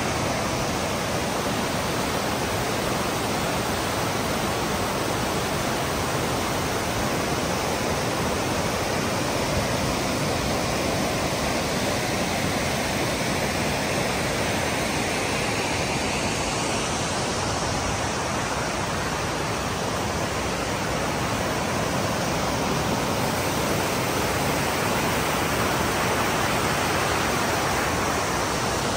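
Tortum Waterfall's falling water making a steady, even rush.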